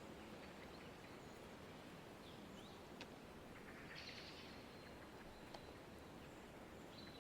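Very faint forest ambience: a steady soft hiss with a few small bird chirps. A thin, high held call comes in about four seconds in.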